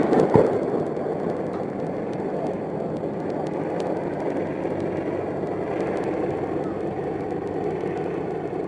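Steady rushing background noise on an AH-64 Apache's cockpit audio, the helicopter's running noise heard through the crew's intercom, with a couple of sharp knocks right at the start.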